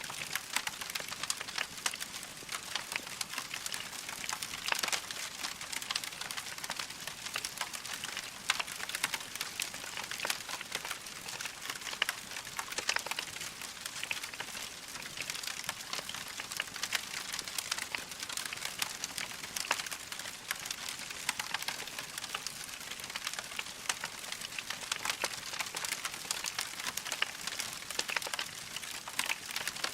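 Burning logs in a fireplace crackling steadily: a dense run of small pops and snaps over a soft hiss of the flames.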